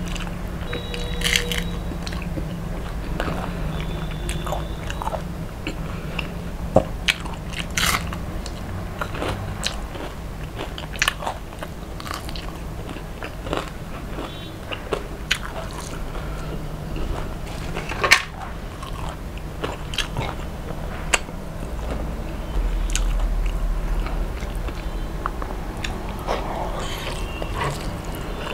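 Close-up eating sounds: crunching bites and chewing of crispy deep-fried fish, with many sharp crackles scattered throughout.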